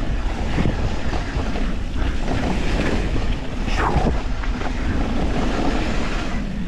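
Wind rushing over an action camera's microphone during a fast mountain-bike descent, with the tyres rolling over wet dirt and rock. A brief falling swish comes about four seconds in.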